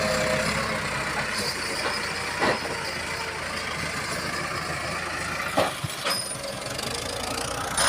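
Tractor engine running steadily, with a few short sharp knocks: one about two and a half seconds in, one about five and a half seconds in, and one at the end.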